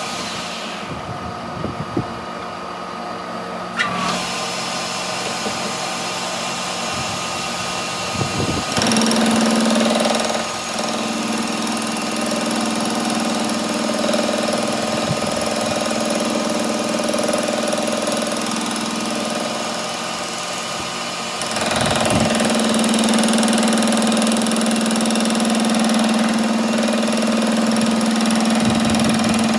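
A workshop machine motor running with a steady hum. It grows louder about nine seconds in and again a little after twenty seconds.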